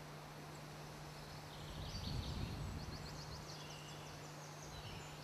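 Faint outdoor ambience over a steady low hum, with a bird chirping in a quick run of short high notes about a second and a half in.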